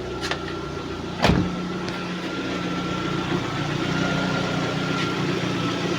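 Lada Priora's four-cylinder petrol engine idling steadily and quietly, partly warmed up, with no knocking or piston slap on its newly replaced pistons. A single short knock sounds about a second in.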